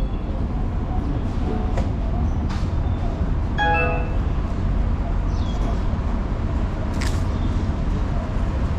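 Busy terminal ambience: a steady low rumble with faint background voices, a short tone just before the middle, and a couple of light clicks near the end.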